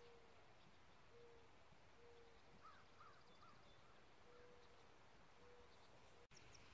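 Near silence, with faint bird calls: a soft, low, hoot-like note repeated about once a second, and a few quick higher chirps midway.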